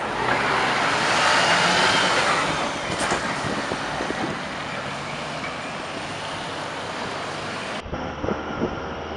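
Road traffic noise, with a large motor vehicle passing close, loud for about two seconds near the start. The sound changes abruptly near the end, where the video cuts.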